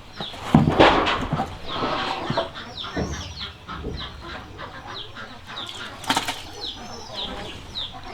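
Chickens on a farm, with a run of short, high peeps repeating a few times a second. A few sharp knocks sound about a second in and again around six seconds in.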